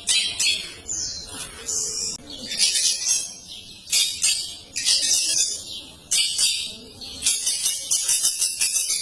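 Long-tailed shrike singing a long, continuous song of dense, high-pitched chattering phrases in quick succession, broken by short gaps.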